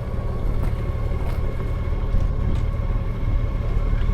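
Motorcycle riding at highway speed: a steady low rumble of engine, wind and road noise, with a faint steady high tone above it.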